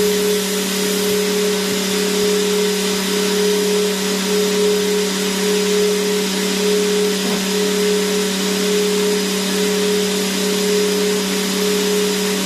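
Vacuum cleaner running continuously: a steady hiss of rushing air over an even motor hum, with no change in speed.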